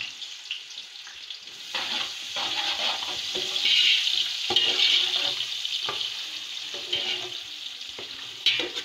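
Onions frying in hot oil in an aluminium cooking pot: a steady sizzle that swells about four seconds in, with a few short knocks in between.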